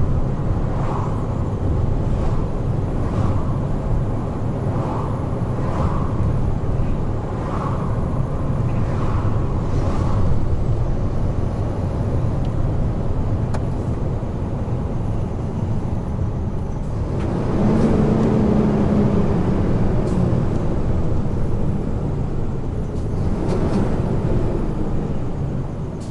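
Heavy truck running at speed on an expressway: steady engine and tyre rumble. About 17 seconds in it grows louder for a few seconds, with a low droning tone.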